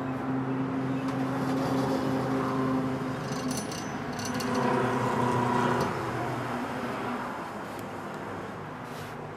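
A steady engine hum, as of a motor vehicle, that fades out about six and a half seconds in, with a few light metallic clinks around the middle.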